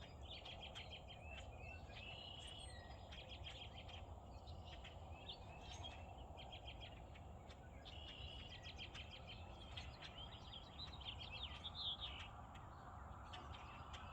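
Birds chirping faintly, with short trilled phrases repeated again and again, over a low steady background noise and a thin, steady high-pitched tone.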